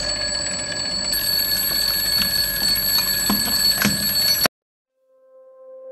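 Alarm clock ringing with a steady tone, with a couple of clicks as it is handled, then stopping abruptly about four and a half seconds in. A soft, steady low tone fades in near the end.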